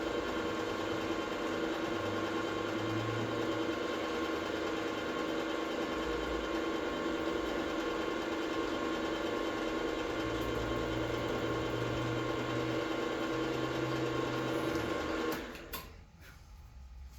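Small milling machine running steadily with a motor whine, switched off about fifteen seconds in. After it stops, a couple of faint knocks are heard.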